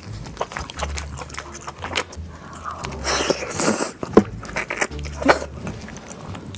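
Close-miked eating of king crab: the shell cracking and crunching in many sharp clicks, with a louder crackling rustle about three seconds in.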